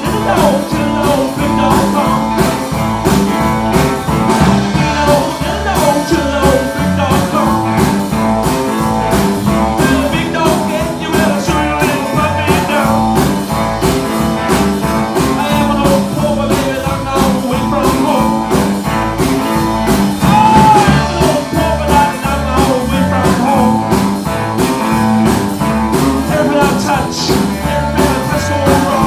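Live rock and roll band playing an instrumental stretch: electric guitar lead lines over bass and drums keeping a steady, driving beat.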